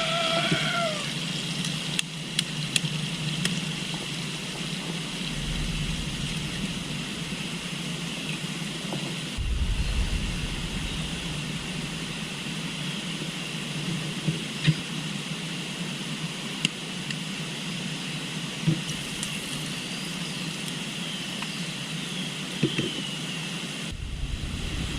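River water flowing steadily, with a constant high-pitched insect chorus and a few bird chirps. There are some sharp clicks a few seconds in.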